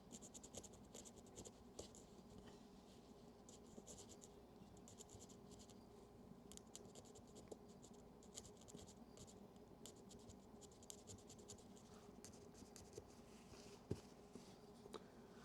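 Faint, rapid scratching strokes of a tool scrubbing oxidation off the metal battery compartment and positive terminal of a Yashica Electro 35 GSN camera, with a soft knock near the end.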